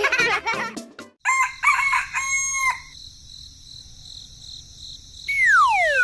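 A rooster crowing about a second in, then a steady high tone and, near the end, a loud whistle falling in pitch.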